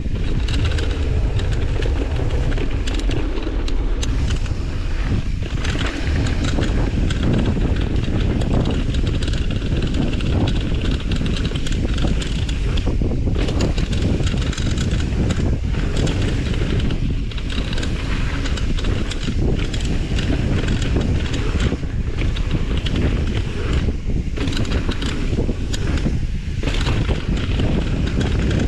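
Wind buffeting an action camera's microphone over a steady rush of tyre noise and rattle from a mountain bike descending a dirt trail.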